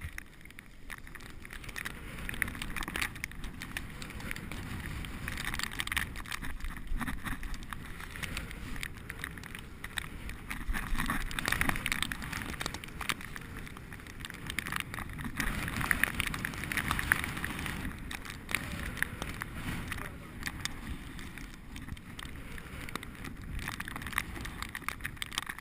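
Bicycle being ridden: a steady rush of wind and tyre noise with many small rattles and clicks, swelling louder every few seconds.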